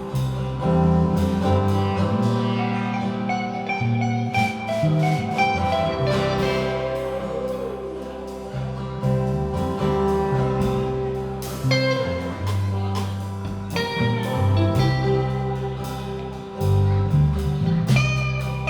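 Live band music: guitar over a line of held low notes that change every second or so, with frequent drum hits.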